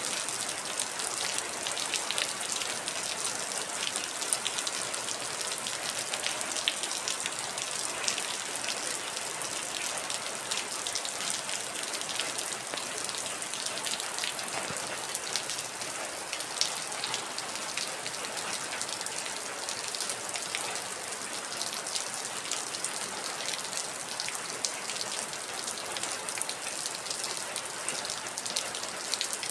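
Heavy rain falling steadily, with many individual drops ticking and pattering on a hard surface. The hiss sits mostly in the high range.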